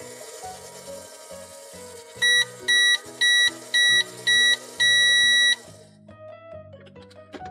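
Microwave-style electronic beeps: five short, high, steady beeps and then one longer beep, the end-of-cycle signal as the Play-Doh cookie is 'done'. Background music plays underneath.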